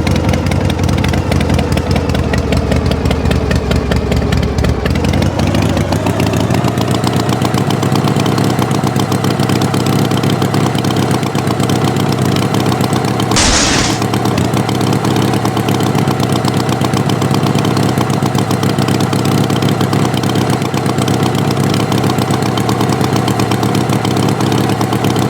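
Tractor engine running steadily. Its pitch sags over the first few seconds, rises again about five seconds in, then holds. There is a short burst of noise about halfway through.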